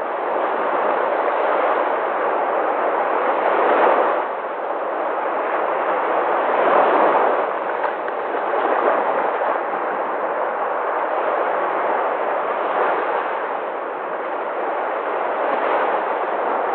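Sea waves washing in, a continuous rush of surf that swells and eases every few seconds.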